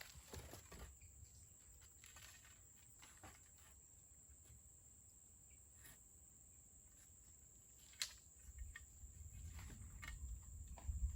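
Faint steady high-pitched insect drone, with scattered light clicks and knocks. A low rumble sets in about eight seconds in and grows louder near the end.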